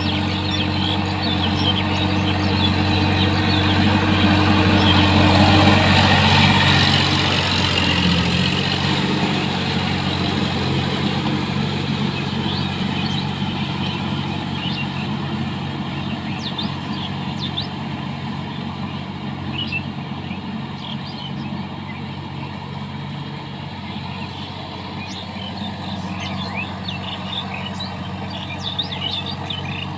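Sonalika tractor's diesel engine running steadily, growing louder up to about six seconds in and then slowly fading.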